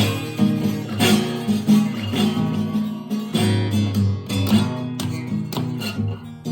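Acoustic guitar playing a blues accompaniment between sung lines, plucked and strummed notes with sharp attacks.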